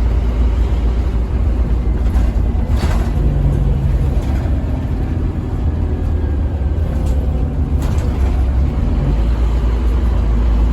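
Scania N230UB OmniCity single-deck bus under way, heard from inside the saloon: a heavy, steady low diesel engine drone with a few short rattles and clicks from the body.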